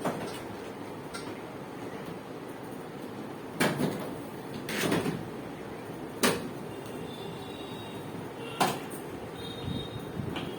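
About five separate knocks and bumps a second or two apart, over steady background noise, as of things being handled and moved.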